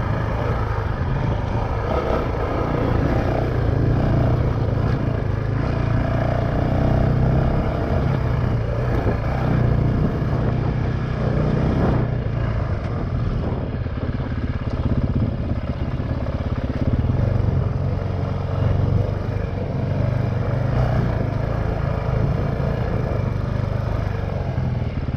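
Honda CRF450X dirt bike's 450 cc single-cylinder four-stroke engine running steadily as the bike is ridden.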